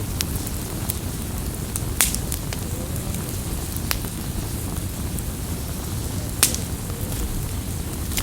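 Campfire burning: a steady low rumble of flames with scattered crackles and sharp pops, the loudest pops about two seconds in and about two-thirds of the way through.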